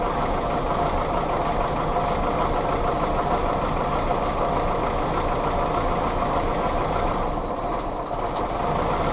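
Willys L134 Go Devil four-cylinder flathead engine idling steadily after just being started, briefly a little softer near the end.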